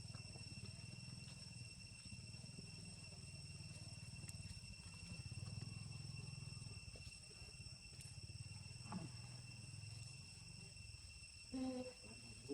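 Faint, steady high trilling of insects, over a low rumble. A brief call is heard near the end.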